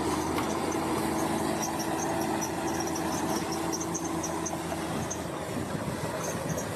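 Bulldozer's diesel engine running steadily, with a held mid tone that fades about four seconds in. Short high squeaks repeat through it.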